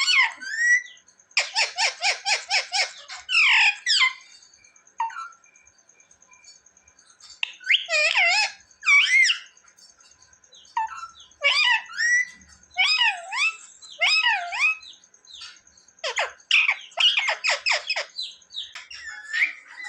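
Ringneck parrot calling and chattering: a fast run of rapid, harsh notes a little after the start, then several groups of gliding, warbling calls separated by short pauses.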